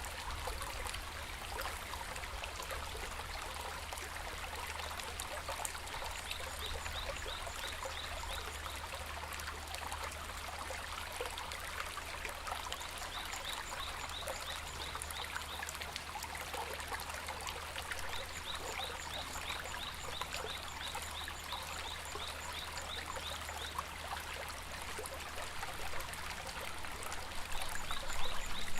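A shallow stream babbling steadily over stones, growing louder near the end. Short runs of quick, repeated high chirps come and go over the water.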